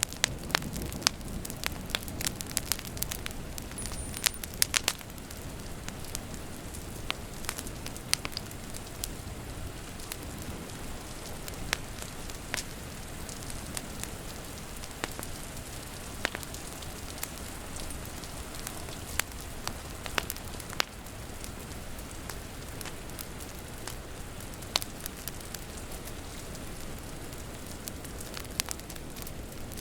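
Wood fire crackling with many sharp pops, busiest in the first five seconds, over a steady hiss of rain.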